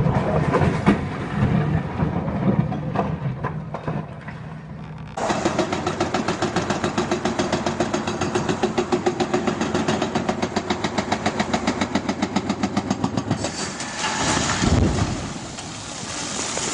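Heavy truck engine running. After an abrupt change about five seconds in it settles into a fast, even chugging for several seconds, following irregular rumbling and knocks. A loud low surge comes near the end.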